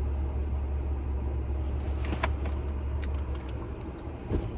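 Steady low rumble of an idling car heard from inside the cabin, easing about four seconds in, with a few light clicks and taps over it.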